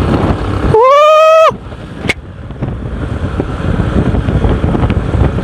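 Riding sound on a Bajaj Platina 125 motorcycle: its small single-cylinder engine runs under wind buffeting the microphone. A horn sounds once, loud and steady, for under a second about a second in.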